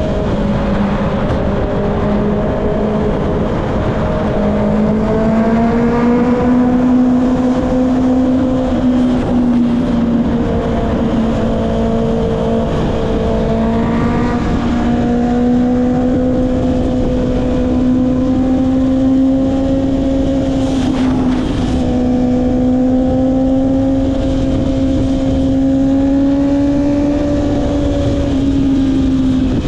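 Honda CB650R inline-four engine through an Akrapovic exhaust, running on the move at a steady, fairly high engine speed, with gentle rises in pitch about five and fourteen seconds in.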